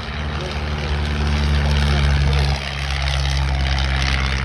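Piston engines and propellers of vintage biplanes flying past in formation. A steady drone with several engine tones grows louder, then drops in level about two and a half seconds in as the aircraft pass.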